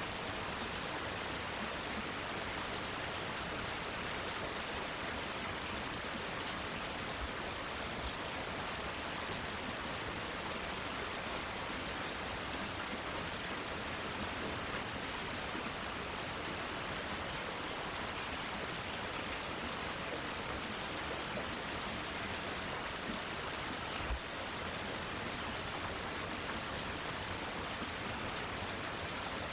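Steady rain falling, an even hiss. A single brief low knock sounds once late on.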